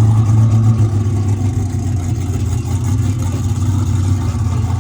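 A car engine idling steadily, a loud, even low hum.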